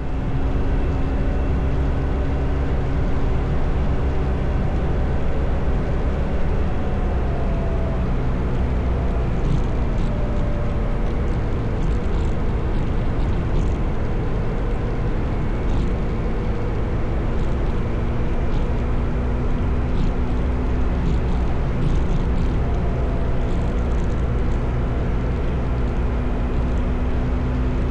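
Motorcycle engine running steadily at road speed, with heavy low wind rumble; the engine pitch shifts slightly about eight seconds in.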